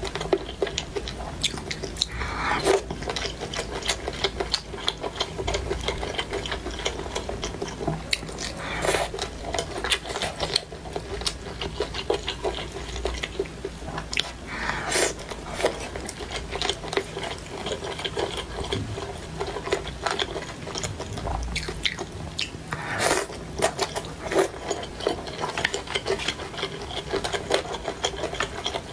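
Close-miked eating of chicken feet: chewing and biting in a dense run of small wet clicks and smacks, with a few louder moments several seconds apart.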